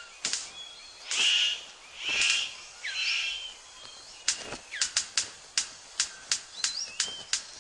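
Male superb bird of paradise's courtship display: three harsh, rasping calls about a second apart, then a run of sharp clicks at a steady rhythm of about three a second from about four seconds in. Thin whistled chirps of forest birds in between.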